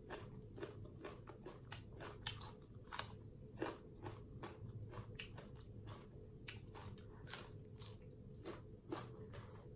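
A person chewing crunchy food close to the microphone: leaf-wrapped bites of green papaya salad with raw vegetables, giving irregular crisp crunches and wet chewing.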